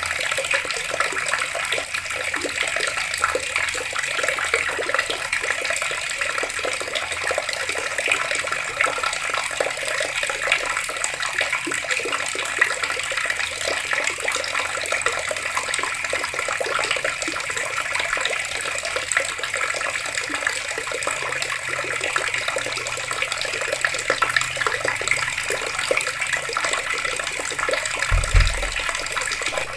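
Water pouring from open taps and splashing steadily, with a brief low thud near the end.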